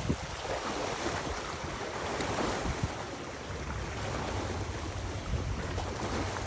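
Wind gusting across the microphone with a low rumble, over the rush of water.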